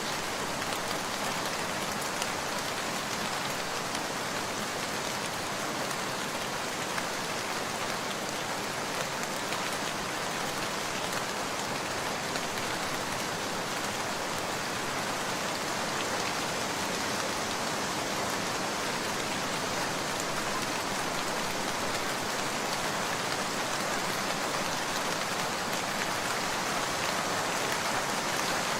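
Steady rain falling: an even, dense hiss with scattered faint ticks of drops, growing a little louder toward the end.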